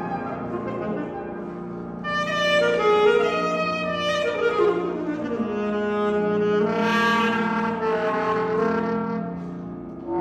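Alto saxophone playing with piano accompaniment. A quick run of notes slides down about four to five seconds in, then gives way to longer held notes.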